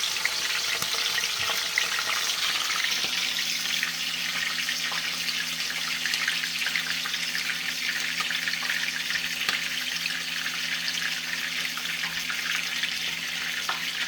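Parrot fish frying in hot oil in a pot: a steady sizzle with a dense crackle of small pops.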